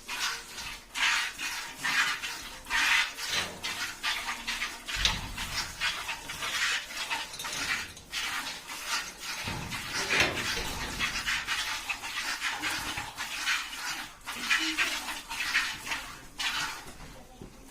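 A buffalo being milked by hand: streams of milk squirting into a pail in a steady rhythm, about two squirts a second. Two low rumbles come in around five and ten seconds in.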